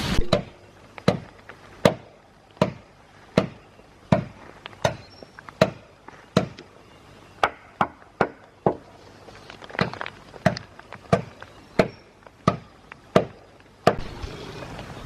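Repeated sharp blows of a tool striking wood, a little more than one a second and briefly quicker in the middle, stopping just before the end.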